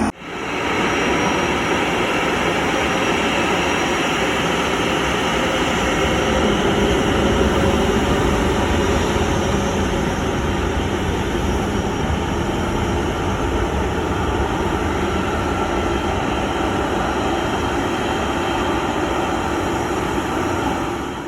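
Jet airliner engines running with a steady rushing noise and a faint high whine.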